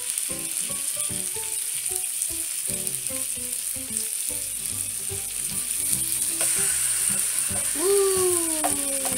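Salmon fillets sizzling in oil in an electric skillet as they are turned over with a spatula: a steady high frying hiss. Near the end a voice hums on a falling pitch.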